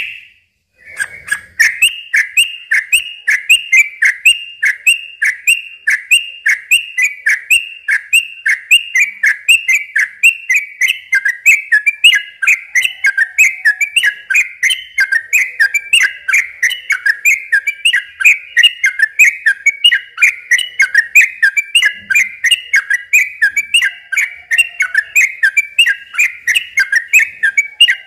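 Yellow-vented bulbul (trucukan) singing a long unbroken run of rapid, repeated chattering notes, about three a second. The run starts about a second in, after a short pause.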